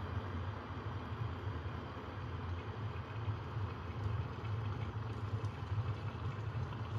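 Electrolux electric kettle heating water toward the boil: a steady rushing noise with a low hum underneath, and faint crackles from about five seconds in.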